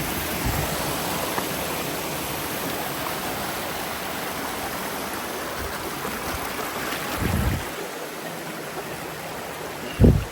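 Argyle Waterfall's water falling and rushing in a steady, even roar, with a few low thumps, the loudest near the end.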